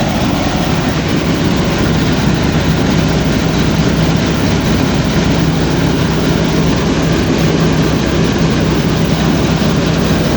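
Heavy farm machinery engine in a wheat harvest running steadily at constant speed: a steady low hum over dense mechanical noise.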